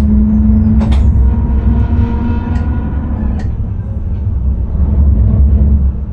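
Dutch intercity train running, heard from the driver's cab: a steady low rumble with a hum that fades out about three seconds in, and sharp clicks near the start and about a second in.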